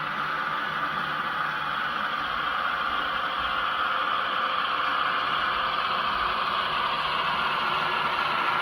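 HO scale model train running on the layout, a steady rushing, rolling noise that slowly grows louder.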